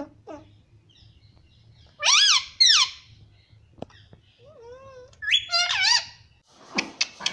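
Pet parrot calling: two loud arched squawks about two seconds in, a soft low warbling call, then another run of calls around five to six seconds.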